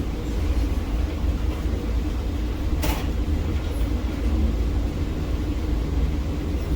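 Container gantry crane machinery running with a steady low drone, with one sharp click about three seconds in.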